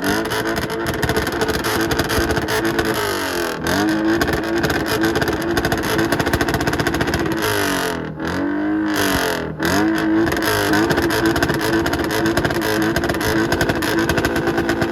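A car engine being revved, its pitch falling and climbing again several times over a loud, steady exhaust note.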